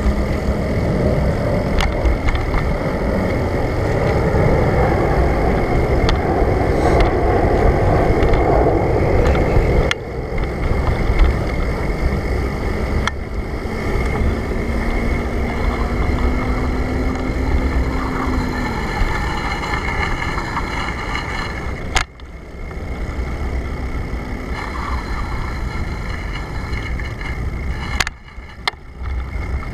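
Wind rushing over the microphone and rolling noise from a moving bicycle. A faint low hum rises slightly in pitch midway through, and the sound dips out abruptly three times.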